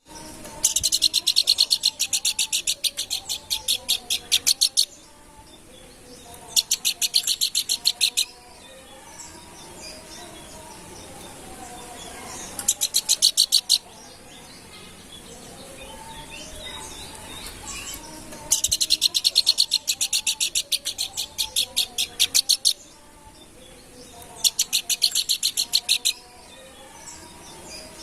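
Planduk bukit songbird singing in bursts of rapid, high repeated notes, about seven a second. Five bursts, each one to four seconds long, are separated by pauses filled with fainter, lower chirping.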